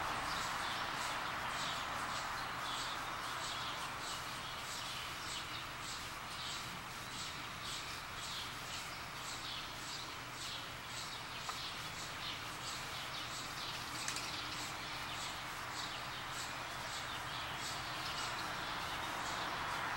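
A small bird chirping over and over, short high chirps about two a second, over a steady outdoor background hiss.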